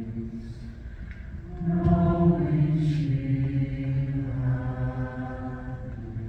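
Choir singing sustained, chordal vocal lines. The sound eases off about a second in, then swells louder with a new entry just before two seconds in, its notes sliding in pitch before settling into held tones.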